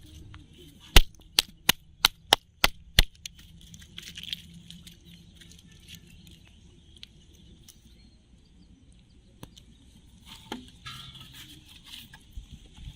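A quick run of seven sharp knocks, about three a second, then a faint steady background.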